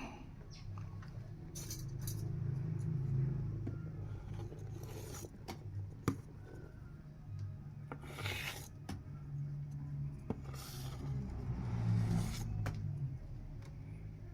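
Irregular scraping and rubbing of handling in a container while beetles are moved, with a sharp click about six seconds in, over a steady low hum.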